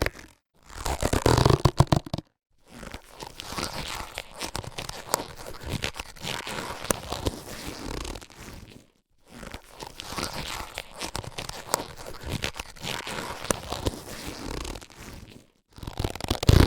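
Latex surgical gloves being handled: a loud rubbery burst about a second in and another near the end, with two long stretches of quieter rubbing and crinkling of the latex between them.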